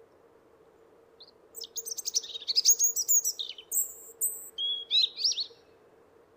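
A small songbird singing one rapid, high-pitched phrase of chirps and twittering trills that lasts about four seconds.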